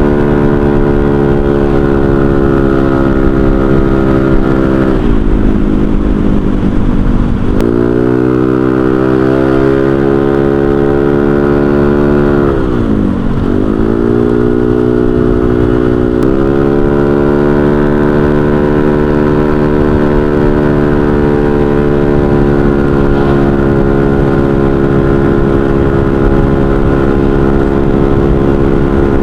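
Honda Vario 125 scooter's single-cylinder engine running through an aftermarket racing exhaust silencer while riding at a steady pace. Twice, at about five seconds and about thirteen seconds in, the engine note drops as the throttle is eased, then picks up again.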